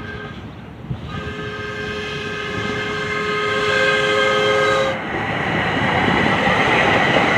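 DART light rail train sounding its horn, a steady multi-tone chord held for about four seconds from about a second in. As the horn stops, the rising rush of the train's wheels on the rails and its running gear grows louder as it pulls into the station.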